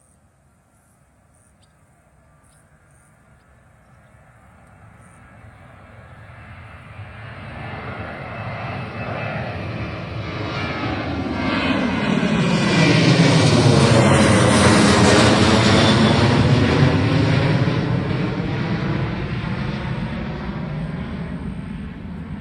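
Ryanair Boeing 737 jet at takeoff power passing by. The jet noise builds steadily from faint, is loudest a little past halfway, then fades away, with a sweeping, phasing quality as it goes past.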